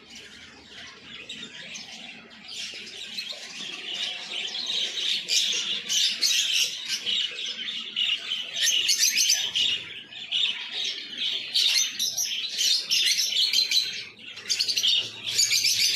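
Many caged birds chirping at once in a dense, continuous chatter, quieter for the first couple of seconds and then louder.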